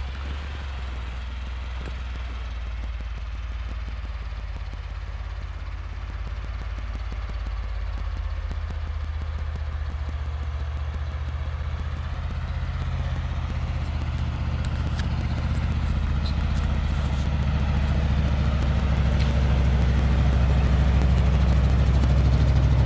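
1973 Ford F-250's 360 V8 engine running steadily at low speed, its low note growing gradually louder.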